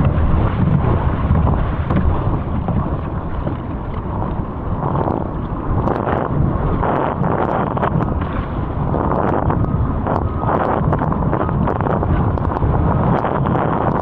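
Wind buffeting the camera microphone at speed on the water: a loud, steady rushing noise with no letup.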